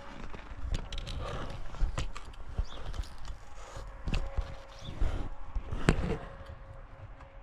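Irregular thumps, clicks and rustles of close handling and movement. The loudest knocks come about two, four and six seconds in, and it settles quieter near the end.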